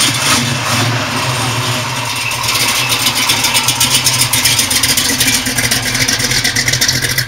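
Supercharged hot-rod engine of a 1932 Ford roadster pickup running steadily and loudly, with rapid, even firing pulses. It gets a little louder from about two and a half seconds in.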